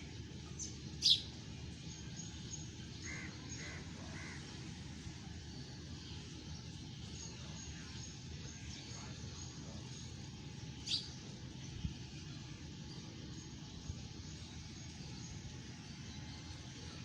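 Bird calls over a steady low background hush: a sharp high call about a second in, a quick run of three shorter calls soon after, and another high call later on.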